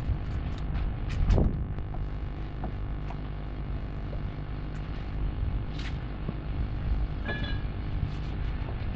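A steady low mechanical rumble with a hum runs under a few sharp clicks from the filleting work. A seabird gives one short call near the end.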